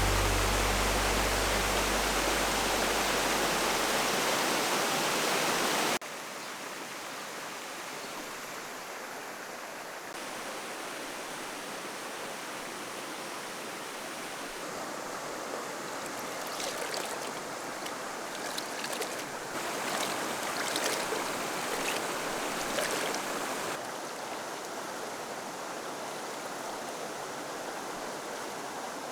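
Steady rushing of a flowing valley stream, louder for the first six seconds, then dropping suddenly to a quieter rush. Light clicks and rustles come and go in the middle.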